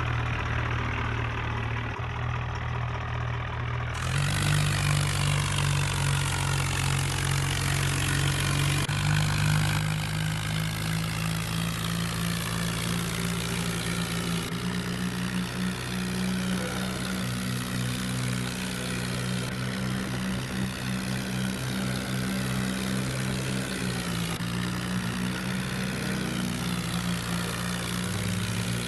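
Farmtrac tractor's diesel engine running steadily while working to pull a big trolley, its note jumping to a slightly different pitch every few seconds.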